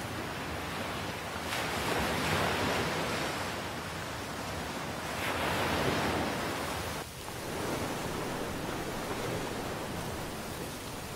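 Rushing wind and ocean surf: a steady noise that swells twice, then drops briefly about seven seconds in.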